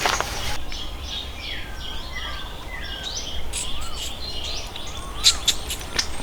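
Birds singing: a run of short whistled notes that slide up and down in pitch, repeated several times. A few sharp knocks come near the end.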